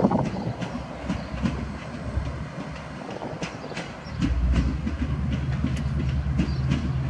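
Diesel passenger train moving along the track, its wheels clicking over the rail joints. About four seconds in, a deep steady engine drone comes up and holds.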